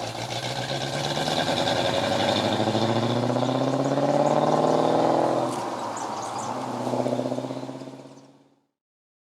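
Car engine accelerating, its pitch rising steadily, then dropping about five and a half seconds in as if changing gear, rising briefly again and fading out.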